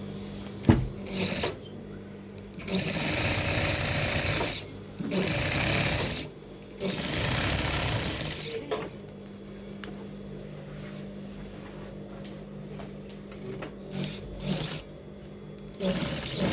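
Sewing machine stitching in runs of about two seconds, three in a row with brief stops between, after a sharp click. Near the end come a couple of short bursts, then it starts stitching again.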